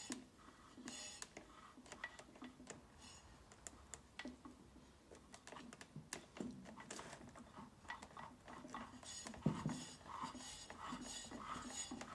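Scattered light metallic clicks, taps and clinks of hand tools and small engine parts being handled, growing busier with ringing clinks in the last few seconds and a single louder knock.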